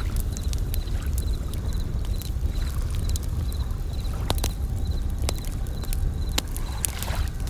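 Campfire crackling with scattered sharp pops, over the low rush of waves that swells near the end, while bell crickets chirp in short high, evenly repeated trills.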